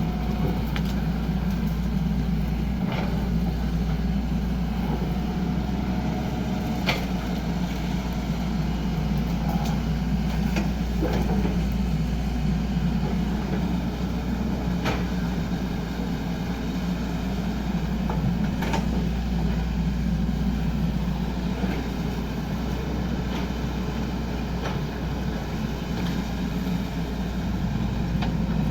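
XCMG 75 excavator's diesel engine running steadily under work, with a few sharp knocks or clicks every few seconds.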